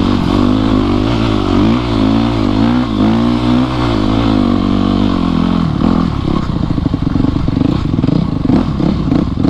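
Yamaha YZ250F four-stroke single-cylinder dirt bike engine under way, its pitch rising and falling with the throttle. About six seconds in the engine note turns choppy, broken by rapid clicks and rattles.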